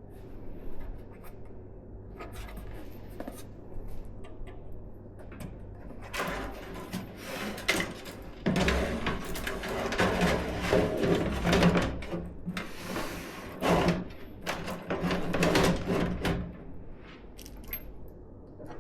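Hands handling computer parts during a PC build: rustling, scraping and a string of sharp clicks and knocks, busiest in the middle and quieter with scattered clicks at the start and end.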